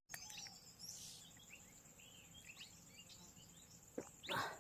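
Faint birds chirping, many short high calls and a falling whistle over quiet outdoor background noise; a brief louder noise comes near the end.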